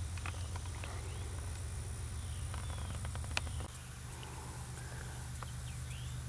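Outdoor ambience: scattered short bird chirps over a steady low rumble and a faint high, even whine. The rumble eases a little past halfway.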